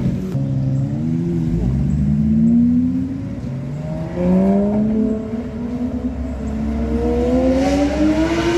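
A high-performance car engine accelerating hard. Its pitch climbs in several long pulls, each dropping back before rising again, as it shifts up through the gears.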